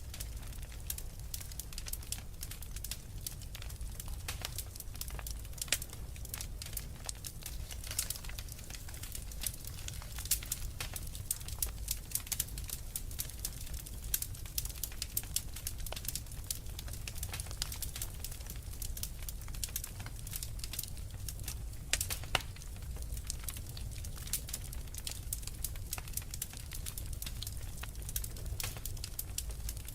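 Wood fire crackling, with many irregular sharp pops and snaps, over a steady low rumble.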